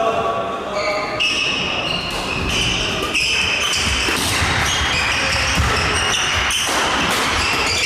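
Badminton play on an indoor court: repeated sharp racket strikes on the shuttlecock, with players' shoes squeaking on the court floor.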